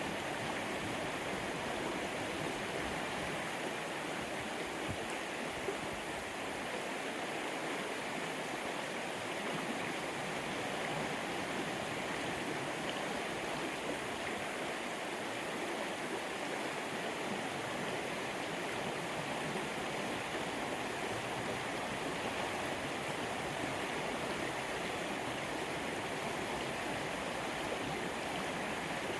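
Small upland stream running over stones: a steady, even rush of water.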